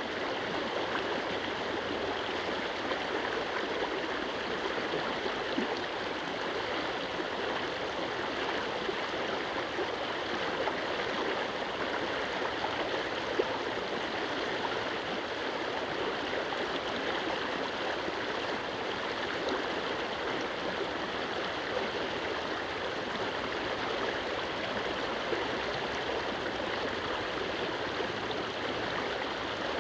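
Stream water rushing steadily over and around stone stepping-stones.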